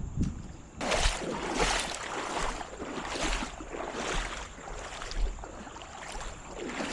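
Creek water sloshing and splashing in an even rhythm, about one swish every second, the sound of someone wading through a shallow creek.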